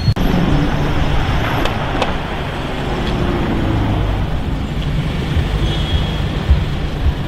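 Street traffic: vehicle engines running with a steady low rumble and road noise.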